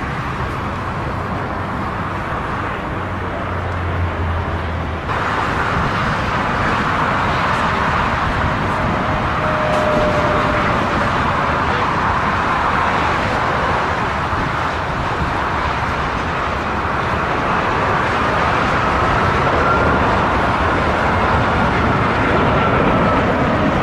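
Steady roar of a jet airliner's engines, with a faint high whine over it in the second half; the sound changes abruptly about five seconds in.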